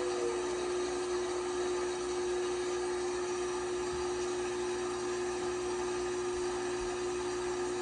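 LG washing machine spinning at a steady speed: a constant whine from the motor over an even rush of noise.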